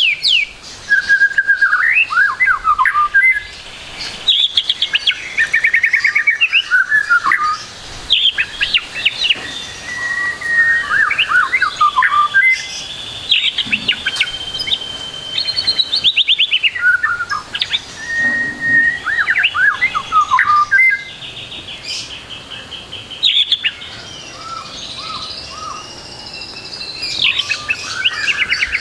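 White-rumped shama (murai batu) singing a long, varied song of fast trills, rapid ticking series and short whistled and sliding notes in quick phrases with brief pauses, packed with imitations of other birds' calls.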